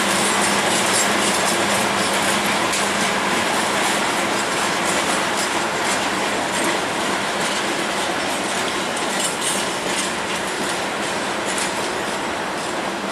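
Works train of ballast hopper wagons rolling slowly over yard tracks: a steady rumble of wheels on rail, with many brief high metallic clicks and squeaks from the wheels over joints and points. It fades a little as the train moves away.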